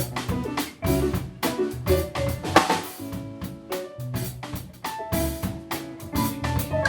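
Jazz-funk band music from a live recording, with a busy drum kit over bass and held keyboard or vibraphone notes.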